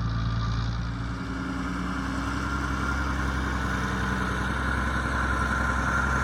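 Leyland 2100 tractor's diesel engine running steadily. Its note shifts about a second in, and a high whine grows stronger toward the end.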